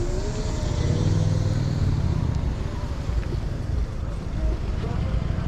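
Riding noise from an electric motorbike on the move: steady wind rumble on the microphone and road noise, with a faint whine rising in pitch over the first two seconds.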